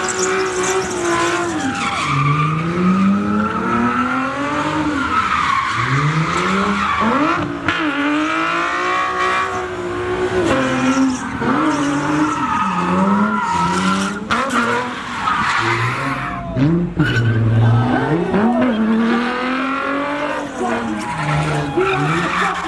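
A drift car's engine revving up and falling back over and over while its tires squeal through long slides.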